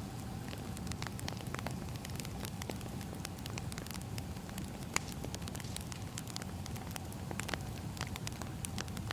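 Burning firewood crackling: irregular small pops and snaps, with one sharper pop about halfway through, over a steady low rumble.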